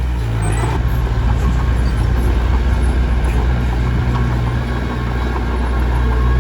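Komatsu D21P bulldozer's diesel engine running steadily at work, with a few faint clanks.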